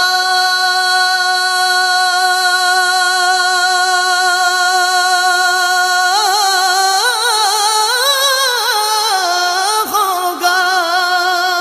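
A solo voice singing an Urdu naat without accompaniment: one long note held steady for about six seconds, then a winding, ornamented run of notes.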